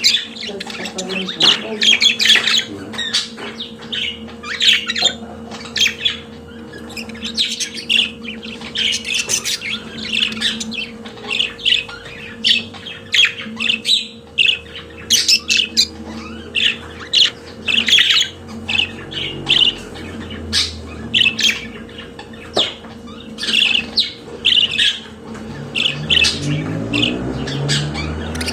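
Budgerigars chattering and squawking: a continuous run of short, high chirps and squawks, over a steady low hum.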